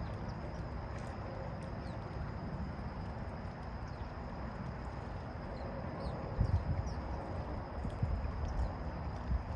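Small birds chirping faintly, short high falling notes every second or two. Underneath is a steady low rumble, the loudest sound, with soft knocks in the second half.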